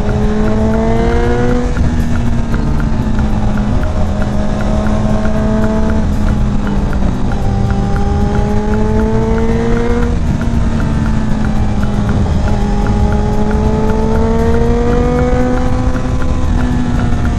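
Kawasaki Z900's inline-four engine under way, its revs climbing over a few seconds and then dropping sharply, about every four seconds, over heavy wind rush and a steady low drone.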